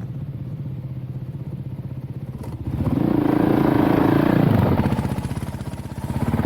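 Dirt bike engine running at a low, steady speed, then revving up about three seconds in, held high for a couple of seconds, and easing back off.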